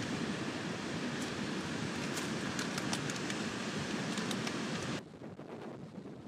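Wind and waves on the shore, a steady rushing noise with scattered sharp clicks, dropping to a quieter hiss about five seconds in.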